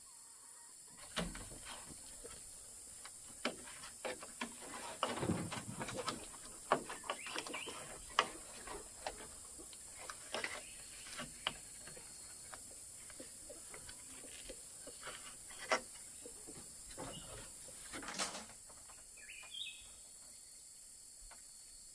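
Irregular light knocks and clicks, some in quick clusters, over a steady high hiss, with a short chirp near the end.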